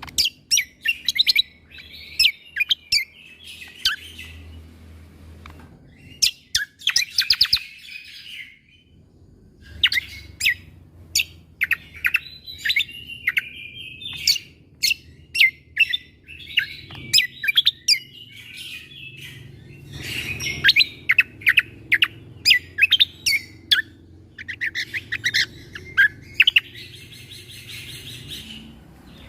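A cucak kombo (kecial kombo) songbird singing a fast, varied song. Sharp, sudden 'shot' notes come in quick runs between bouts of warbling chatter, with a brief buzzy trill near the end. Faint low hum underneath.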